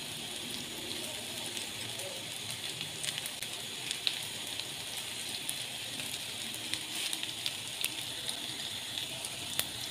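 Minced-meat kebabs shallow-frying in hot oil in a pan: a steady sizzle with many small crackles and pops scattered through it.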